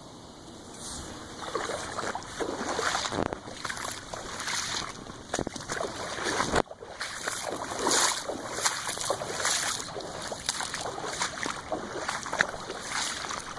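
Water splashing and sloshing in irregular surges, starting about a second and a half in, with a brief break near the middle.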